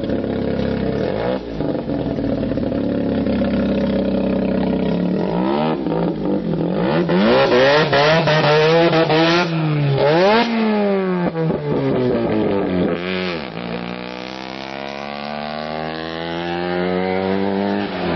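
Rotary engine of a custom VAZ-2108-based car revving: several sharp rises and falls in pitch, quickest through the middle, then a long, steady climb in pitch as it pulls under acceleration near the end.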